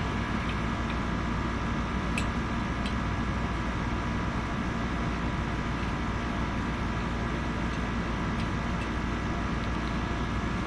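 Steady mechanical hum of the room's background, with a few faint clicks a couple of seconds in from small parts being handled.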